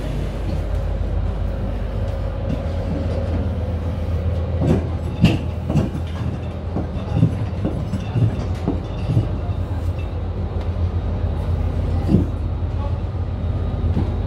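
Steady low rumble of the sailing ship's drive machinery, with a scatter of short knocks, most of them between about five and nine seconds in and one near twelve seconds.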